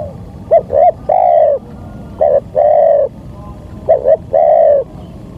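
Spotted dove (tekukur) cooing: three repeated phrases, each two short notes then a longer falling coo, about one and a half seconds apart.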